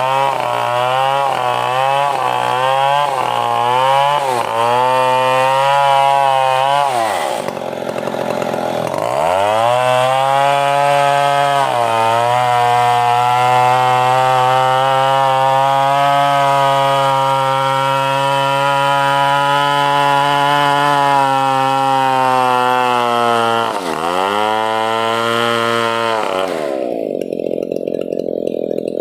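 Stihl 070 two-stroke chainsaw engine revving up and down several times, dropping off, then running at steady high revs for about twelve seconds before dropping and revving again; near the end the sound turns abruptly dull.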